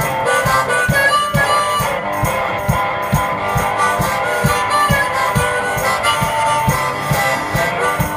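One-man band playing an instrumental break: harmonica leading the melody over strummed guitar and a steady bass-drum beat, about two beats a second.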